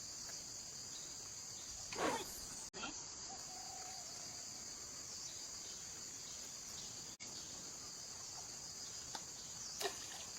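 Steady, high-pitched chorus of insects, with one brief louder sound about two seconds in.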